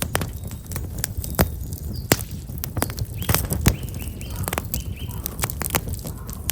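Black locust firewood burning in an open fire, crackling with sharp irregular pops and snaps over a low rumble. Small birds chirp faintly around the middle.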